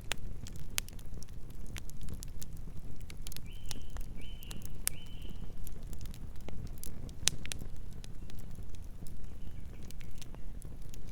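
Wood campfire crackling: a steady low rumble of burning with frequent sharp pops and snaps. A few short high chirps sound a few seconds in.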